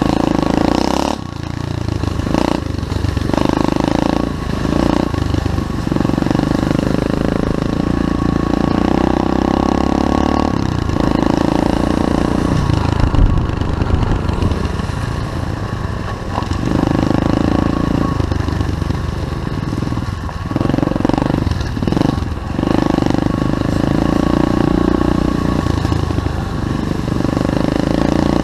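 SSR 125cc pit bike's single-cylinder four-stroke engine being ridden, holding steady revs in long pulls broken by short drops as the rider shifts or rolls off the throttle, several times.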